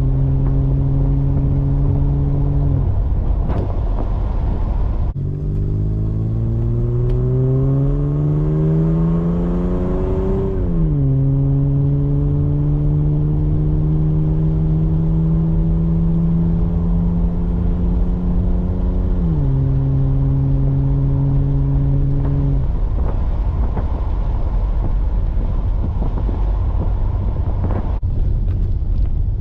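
Ford EL Falcon's 4.0 L SOHC inline-six, breathing through Pacemakers 4499 headers, a Venom high-flow cat and a 2.5-inch sports exhaust, under way on the road. The exhaust note rises steadily under acceleration, drops sharply at a gear change, climbs again and drops at a second shift. Continuous road rumble runs underneath, and after about 23 seconds only the road rumble is left.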